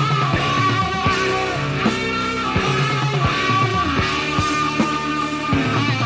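Hard-rock band playing a slow ballad instrumental, a guitar melody over bass and drums, with no singing.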